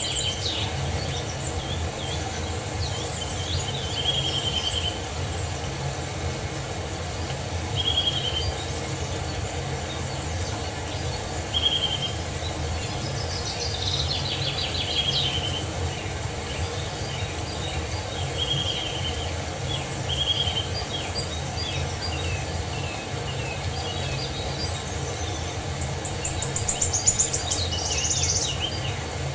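Songbirds calling over a steady low rush of falling water: a short call repeated every few seconds, with quick trills about halfway through and a louder trill near the end.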